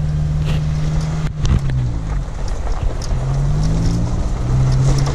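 Off-road vehicle's engine running steadily. About a second in, its note breaks and falls, then rises twice as it pulls away and accelerates, with a few light knocks over rough ground.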